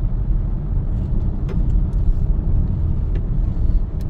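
Steady low rumble of a car driving, road and engine noise heard from inside the cabin, with a few faint ticks.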